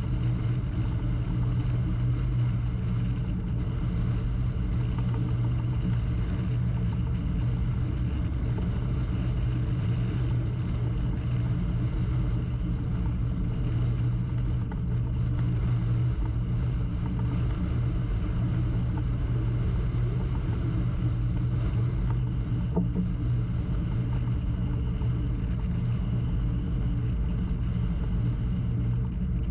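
Crew transfer boat's engine running steadily, a low, even drone.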